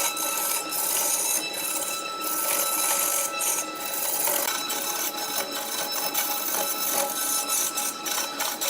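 Wood lathe turning, with a steel tool scraping and cutting the spinning wood: a continuous rasping hiss broken by rapid clicks, over a steady high ringing tone.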